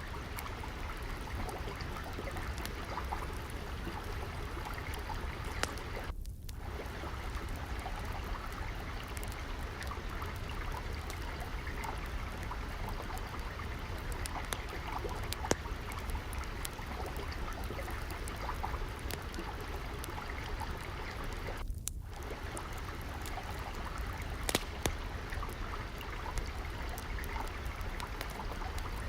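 Steadily flowing, trickling water, with scattered sharp crackles and pops from a wood fire.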